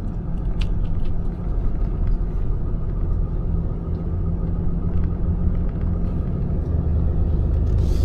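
Tow truck driving slowly, with a steady low engine and road rumble.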